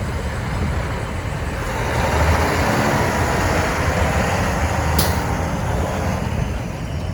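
Cummins ISX15 straight-six diesel of a Kenworth T800 tractor running with a steady low rumble that grows louder for a few seconds in the middle, with one short sharp click about five seconds in.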